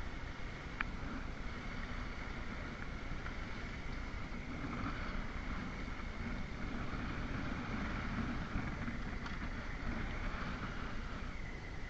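Motorcycle engine running steadily while riding, with wind rushing over the microphone; the engine note grows a little stronger in the middle.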